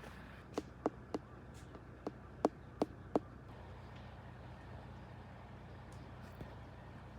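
Seven sharp knocks in two quick runs, three and then four, each about a third of a second apart, in the first half.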